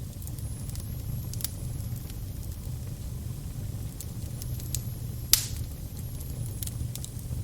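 Fire crackling over a steady low rumble, with scattered sharp pops and one loud pop about five seconds in.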